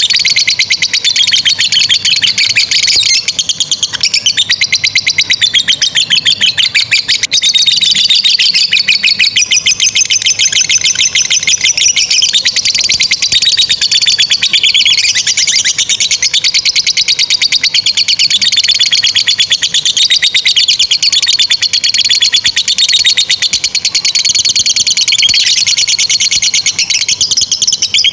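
Lovebird singing a long, unbroken 'ngekek' chatter: a rapid, continuous run of shrill high notes. This is the prolonged ngekek that fanciers prize and play to other lovebirds as a song tutor.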